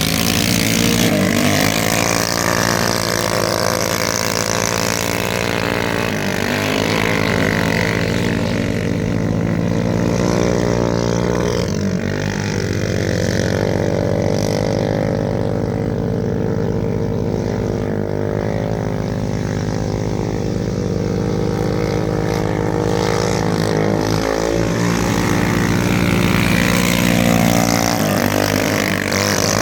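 Go-kart engine running steadily, its pitch briefly sagging and coming back up every few seconds as the throttle eases off and opens again.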